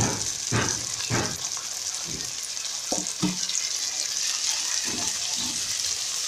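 Boiled beans sizzling in hot oil and tomato paste in a cooking pot, with a steady hiss. A wooden spatula stirs and scrapes through them in several separate strokes.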